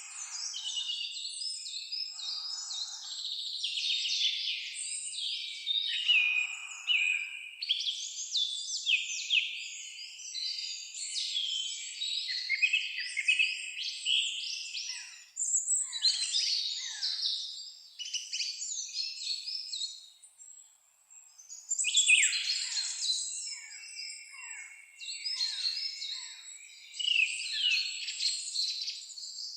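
Several songbirds singing at once: a dense chorus of overlapping trills, chirps and quick whistled phrases. It drops away briefly about twenty seconds in, then resumes.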